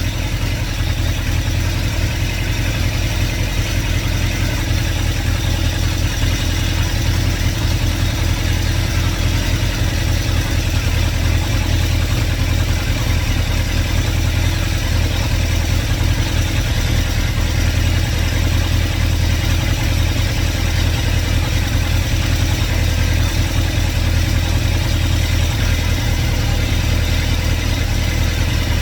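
2110cc air-cooled VW flat-four engine with twin Empi 44 IDF carburetors, idling steadily. Its fuel pump is shut off and it is running the carburetors dry, so it is beginning to stumble as the fuel runs out.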